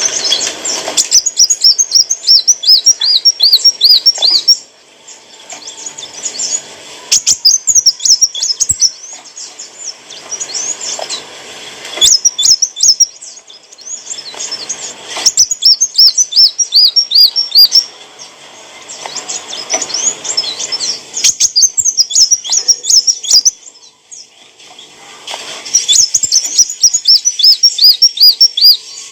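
Sunbird (kolibri wulung) singing: phrases of rapid, high, sharp chirps and trills, each a few seconds long, with short pauses between them.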